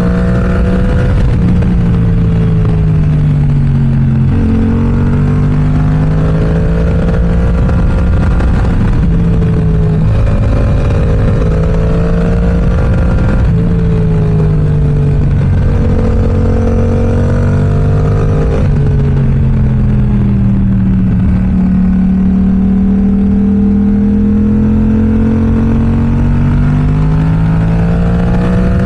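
Yamaha R7's 689 cc parallel-twin engine through an M4 aftermarket exhaust, pulling up and easing off through the gears while riding, with several sudden drops in pitch at gear changes and a long slow rise and fall near the end.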